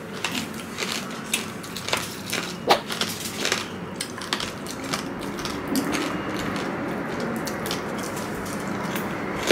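Close-up crunching and chewing of crispy fried pork rind (chicharon): sharp crackles through the first few seconds, then steadier chewing noise.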